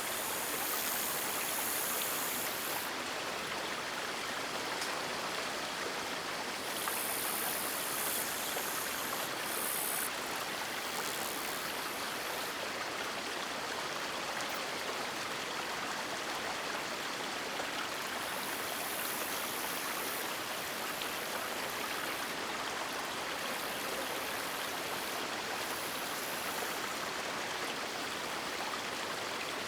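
River water rushing steadily. Over it, a high hiss comes and goes in stretches of one to three seconds.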